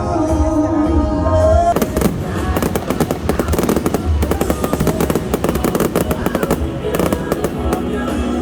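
Fireworks going off, with a dense run of rapid bangs and crackles starting about two seconds in, over loud show music.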